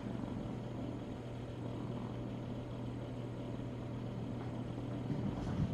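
Steady low electrical hum with a faint even hiss: background room tone.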